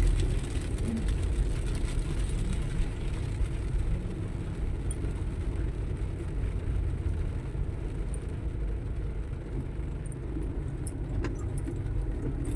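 Steady low rumble of road traffic, with vehicle engines running, and a few faint ticks.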